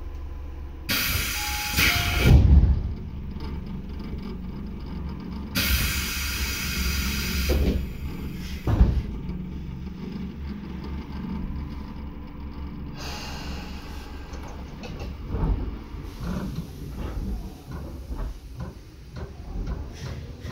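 Inside a Tobu 10030 series electric train car above its line breaker: a steady low rumble from the train, broken by two loud bursts of hiss, each about two seconds long, and a couple of heavy thumps.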